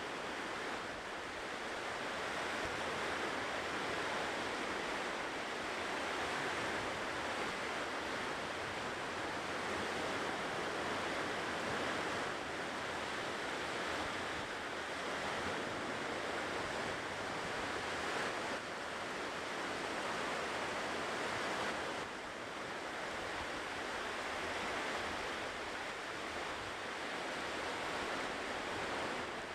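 Ocean surf washing onto a shore: a continuous rush of breaking waves that swells and eases gently.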